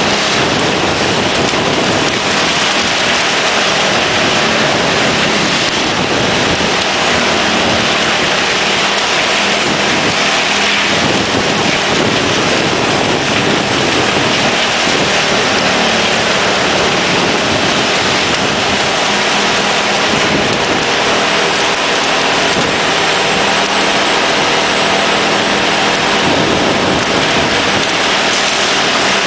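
Erjo 9/93 forwarder-mounted wood chipper running under load, chipping timber: a loud, steady wash of noise from the cutting and flying chips, with the machine's engine hum beneath.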